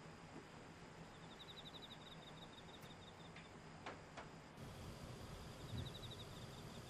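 Near silence: faint room tone with two faint clicks about four seconds in and a soft low thump near the end.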